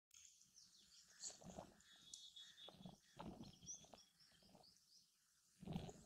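Faint, high bird chirps and short whistled calls from small birds, over low, uneven rumbling that swells near the end.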